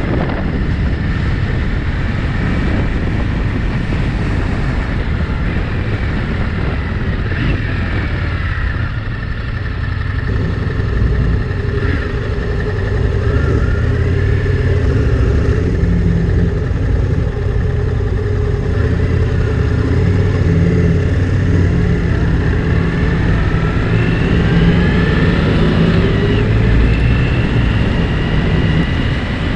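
Motorcycle running on the road, its engine a steady low rumble with slow rises and falls in pitch, mixed with wind rushing over the microphone.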